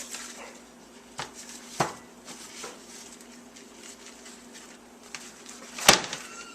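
Kitchen handling sounds as a microwaved ear of corn is squeezed out of its husk: a few light knocks and clicks, then one sharp click near the end, over a steady low hum.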